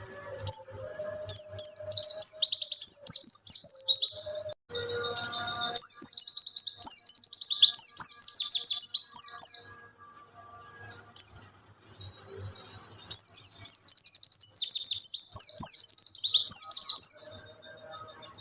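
A white-eye (pleci) singing loud, high-pitched, rapid warbling song in three long bursts of fast chattering and sweeping notes, with short pauses between them.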